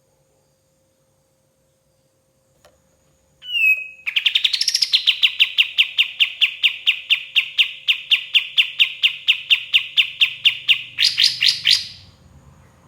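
Kapas tembak singing: after a short opening note, a long fast rattle of identical sharp notes, about five a second, which goes higher and louder for its last second before breaking off.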